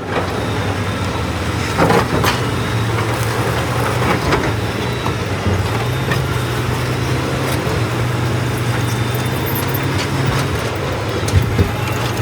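Heavy vehicle engine running steadily, with a few scattered knocks and clanks.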